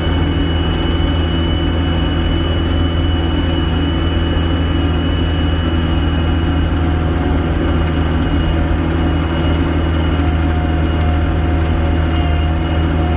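Gehl 5625SX skid steer's diesel engine running at a steady speed, heard from the operator's seat, with a thin high whine held over the engine hum.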